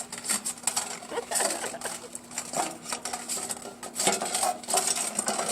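A dog eating from a food bowl, the bowl clinking and clattering in irregular knocks as it eats.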